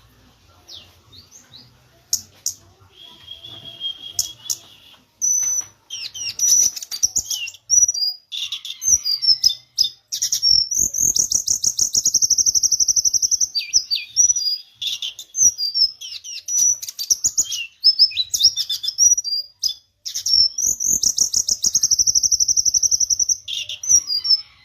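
A small songbird singing a rapid, high-pitched song of quick whistled notes and long fast trills, faint at first and loud and continuous from about ten seconds in.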